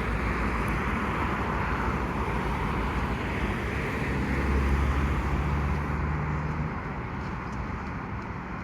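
Diesel locomotive engines running as the freight train moves past. The low drone swells about four to six seconds in, then slowly fades.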